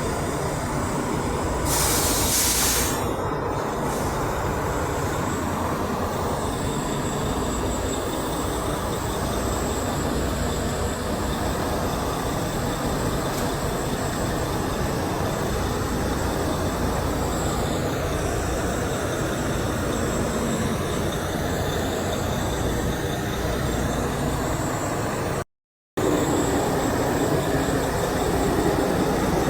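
Continuous rumble of heavy vehicles going by, with a short sharp hiss about two seconds in. The sound cuts out for a moment near the end.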